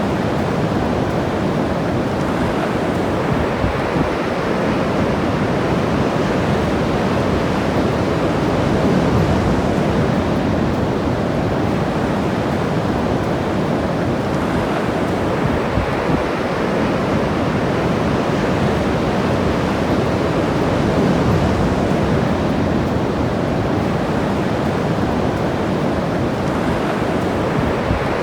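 Ocean surf washing steadily onto the shore, swelling a little as waves break, with some wind on the microphone.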